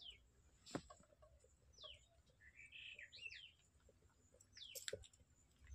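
Faint bird calls: short chirps that sweep downward in pitch, repeated about five times, with a brief warble in the middle. A couple of soft clicks come through as well.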